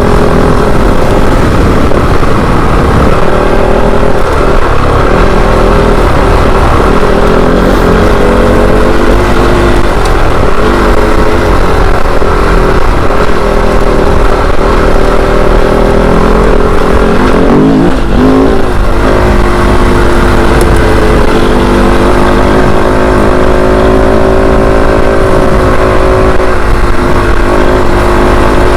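Kove 450 Rally's single-cylinder four-stroke engine running continuously under load, its pitch rising and falling with the throttle. About two-thirds through, the pitch briefly drops and climbs again.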